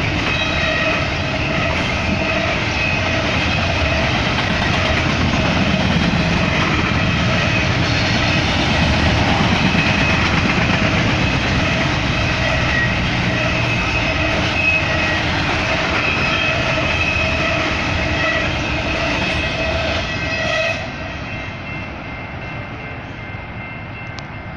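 BNSF intermodal freight train cars rolling past on the rails, a steady wheel-and-rail rumble with thin, high, steady tones over it. About twenty seconds in, the noise drops sharply as the last cars go by, leaving a quieter background.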